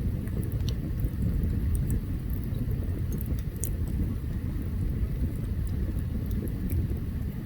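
Open campfire burning: a steady low rumble with scattered small crackles and pops.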